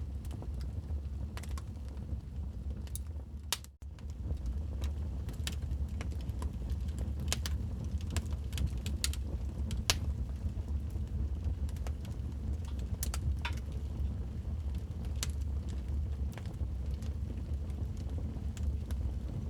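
Wood fire in a fireplace crackling: irregular sharp pops and snaps over a steady low rumble of the flames. The sound drops out for a moment about four seconds in.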